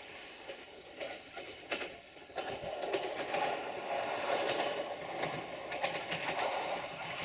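Siemens Desiro VT642 diesel multiple unit approaching, its wheels clicking over the rail joints. The running noise grows louder about two and a half seconds in as the train draws near.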